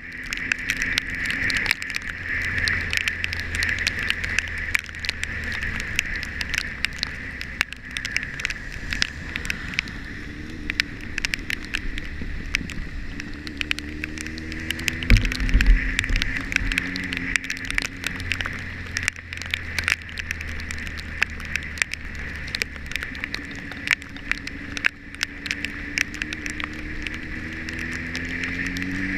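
Motorcycle engine running on the road, its pitch climbing as it accelerates about halfway through and again near the end. Rain ticks and patters on the camera throughout, with a heavy low thump about halfway through.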